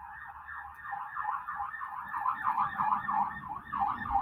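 Ambulance siren in fast yelp mode, a rapid up-and-down wail at about four to five sweeps a second, growing louder as it goes.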